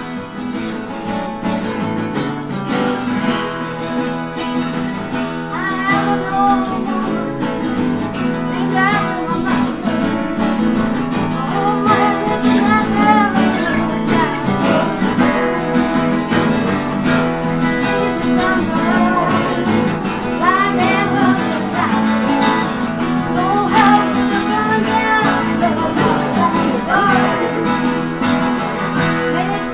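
Live acoustic music: guitar playing a steady accompaniment under a wavering melody line.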